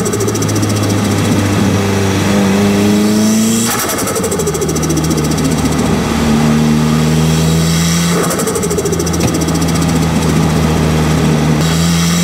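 Turbocharged SR20 engine of a Nissan Silvia S15 with a T28 turbo, heard close at the turbo: the engine pulls up through the revs under boost, then a rapid turbo flutter chatters as the throttle is lifted for a gear change, about four seconds in, again around eight seconds and once more near the end, each time dropping to a lower, steady engine note.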